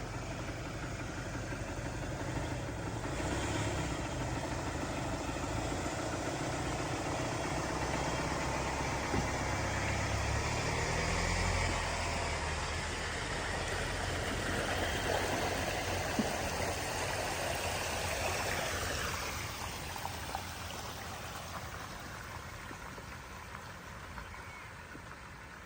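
A motor vehicle's engine running close by, then fading away over the last several seconds.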